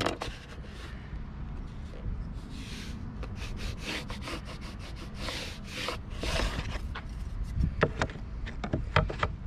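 Wood being worked by hand: a few short rubbing, sanding-like strokes, then several sharp knocks near the end.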